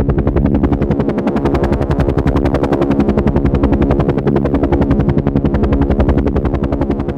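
Helicopter in flight: a fast, even chop of rotor blades over a steady engine drone.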